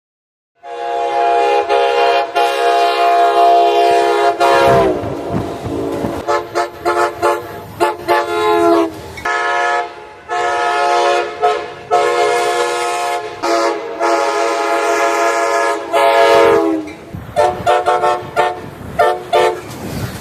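Locomotive multi-chime horn sounding a long blast of about four seconds, then a string of shorter blasts of varying length, the chord sagging in pitch as each blast cuts off.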